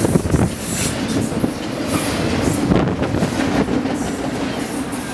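Double-stack container well cars of a CN freight train rolling past at speed. A steady rumble of steel wheels on rail, with irregular knocks and clanks as the wheels cross the rail joints.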